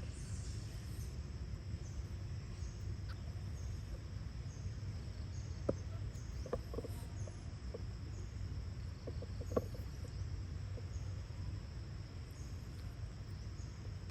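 A few short, high squeaks from monkeys, clustered in the middle, over a steady low rumble.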